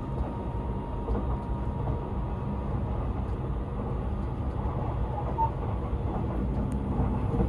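Cabin noise of a Seibu 001 series Laview limited express train in motion: a steady low rumble of the running train heard from inside the car.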